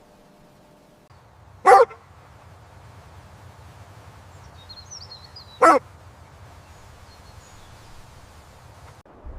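A dog barking twice, two single short barks about four seconds apart, over a faint low background rumble.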